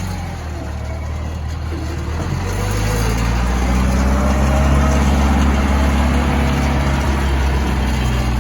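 Cat 426 backhoe's diesel engine running, rising in level about two to three seconds in and staying louder as the engine speeds up or takes load.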